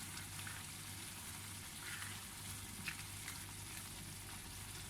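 Tomato marinara sauce with onions, garlic and spices sizzling gently in a pan, with a few faint clicks of a utensil.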